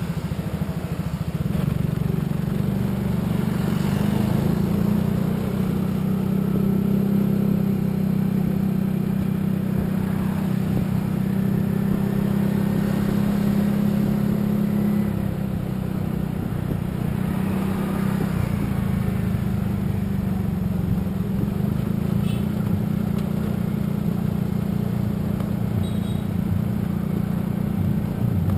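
Steady low engine and road noise of a vehicle driving along, with faint swells as other traffic passes.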